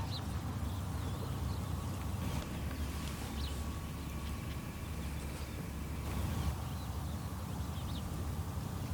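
Birds chirping now and then in short calls, over a steady low rumble.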